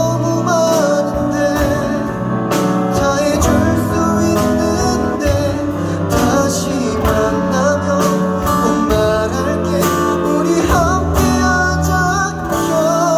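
A live song: a voice singing a melody over strummed acoustic guitar and band accompaniment, steady and loud.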